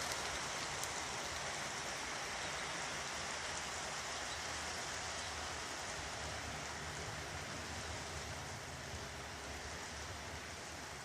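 Steady hiss-like noise with a low, wavering hum underneath, easing slightly in level.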